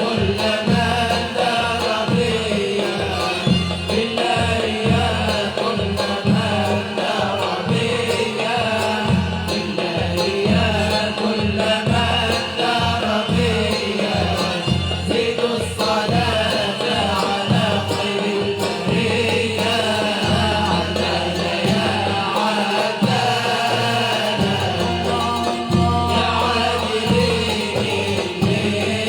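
Libyan ma'luf ensemble performing: voices sing a winding melody over instruments and a low rhythmic accompaniment.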